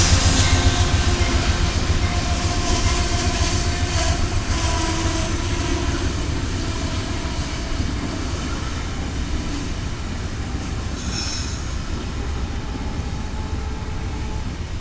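Amtrak passenger train rolling slowly along the track, with a heavy low rumble and steady high wheel squeal, the rumble easing off gradually.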